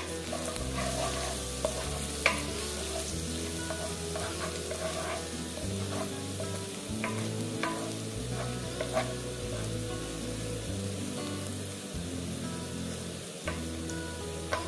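Chopped garlic and ginger sizzling in hot oil in a non-stick wok, stirred and scraped with a wooden spatula, with a few sharp knocks of the spatula against the pan. Low background music plays underneath.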